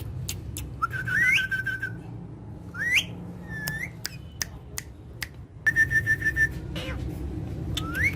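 Pet parrots whistling: several short rising whistles, plus two held trilled notes, one about a second in and one about six seconds in. Scattered sharp clicks come in between.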